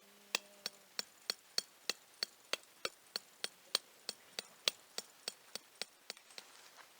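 A hammer driving a thin tent peg into the ground: about twenty quick, sharp strikes at an even pace of roughly three a second, turning into lighter taps near the end.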